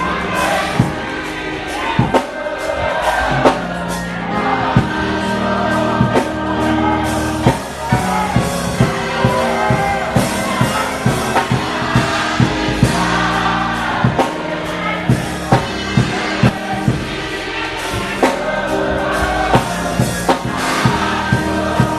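Gospel music: a choir singing over a band with a steady drum beat and held bass notes.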